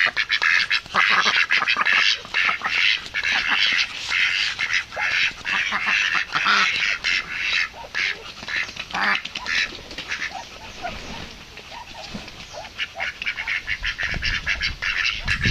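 A group of birds making rapid, chattering calls, dense at first and thinning out about two-thirds of the way through before picking up again near the end.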